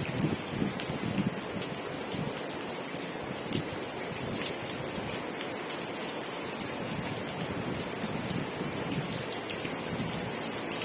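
Steady rain falling: a dense patter of drops over a constant hiss.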